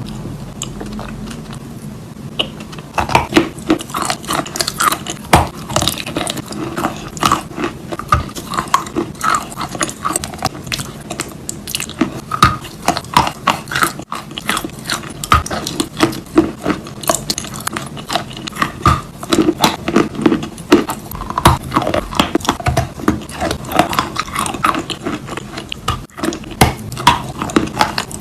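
Biting and chewing a big bar of wet chalk, close to the microphone: a dense, irregular run of crunches that starts about three seconds in and goes on steadily.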